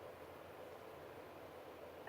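Near silence: faint room tone with a steady hiss.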